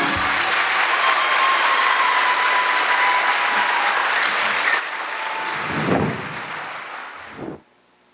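Audience applauding at the end of a song, dying down over the last few seconds and then cutting off abruptly.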